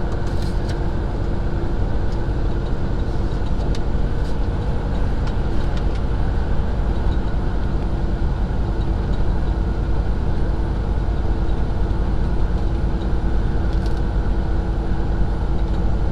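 Semi truck driving at steady speed: a continuous engine drone and road rumble with a steady hum and a few faint ticks.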